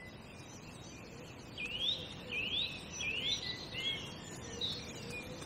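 A songbird singing: three rising notes in a row, then a few shorter, fainter notes, over a quiet outdoor background hiss.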